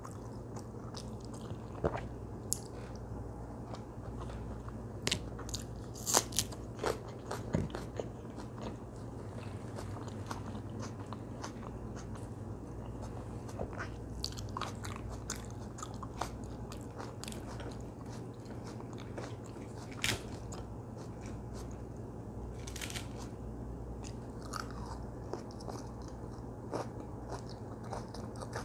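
A person chewing and crunching food close to the microphone, with many short sharp clicks scattered throughout, over a steady low hum.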